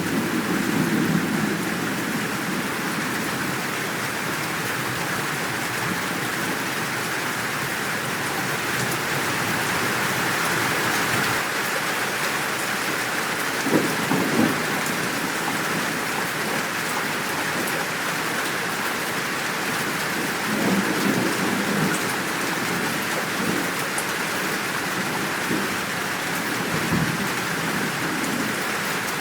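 Steady, heavy rain falling, with a few short low rumbles of thunder scattered through it.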